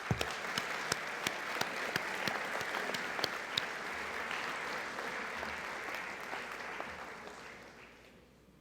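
Audience applauding in a large gym, steady for several seconds and then dying away near the end.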